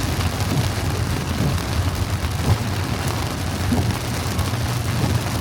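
Heavy rain drumming on an SUV, heard from inside the cabin, over a steady low rumble.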